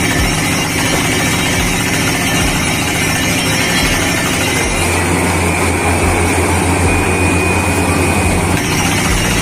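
Motor of a model borewell drilling machine running steadily. From about five to eight and a half seconds in, a deep hum grows stronger and the hiss thins, then the earlier sound returns.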